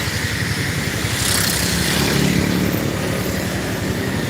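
A motor vehicle engine running steadily under the hiss of heavy rain, swelling briefly louder around the middle.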